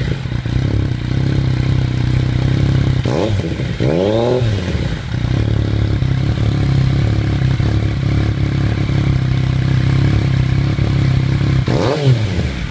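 Yamaha FZ-09's 847 cc inline three-cylinder engine idling through an aftermarket M-4 exhaust with the catalytic converter cut out and the dB-killer baffle still fitted, blipped up in quick revs about three to four seconds in and again near the end.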